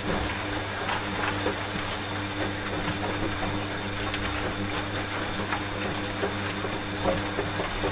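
Washing machine running with a steady motor hum, under continuous rain with scattered drop ticks.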